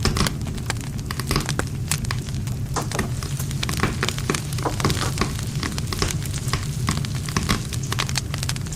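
Wood campfire burning, with frequent irregular crackles and pops of the wood over a steady low rumble of the flames.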